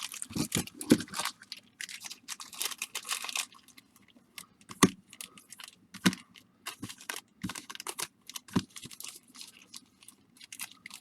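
Baseball card packs being handled and sorted: plastic wrappers crinkling for the first few seconds, then scattered sharp taps and clicks as packs are picked up and set down.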